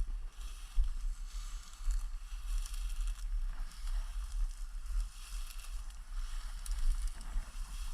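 Rustling and crunching of dry grass and brush in uneven patches, as hunters walk through cover, with a steady rumble of wind on the microphone.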